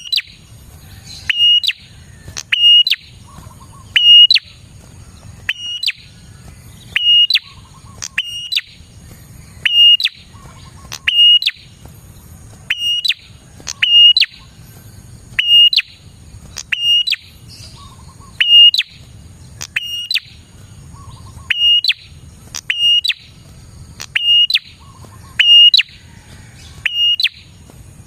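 A prenjak (prinia) giving a sharp, high call over and over, about once every second and a half. Each call is a quick falling sweep that settles into a short, steady whistle.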